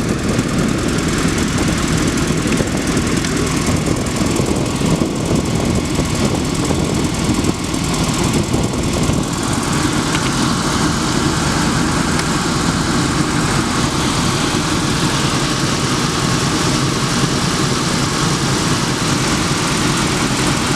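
Belt-driven air handler blower running with a steady, heavy rumble and vibration. The vibration comes from a loose, worn drive belt, and is later cured by replacing the belt.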